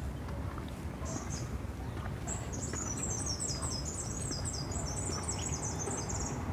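A small bird sings a fast, high-pitched twittering phrase lasting about four seconds, after a brief call about a second in, over a steady low rumble.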